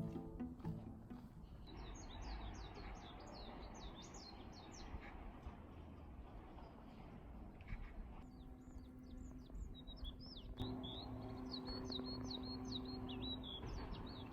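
Small songbirds chirping in a rapid, dense chatter of short high notes, pausing briefly about seven seconds in and then starting again.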